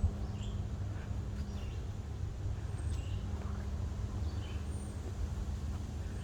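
Forest ambience: scattered short, faint bird chirps and thin falling whistles over a steady low rumble.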